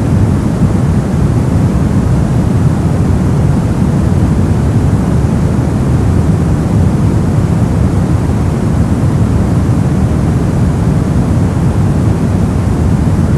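Steady brown noise: a constant, deep rumbling hiss weighted toward the low end, with no changes or events.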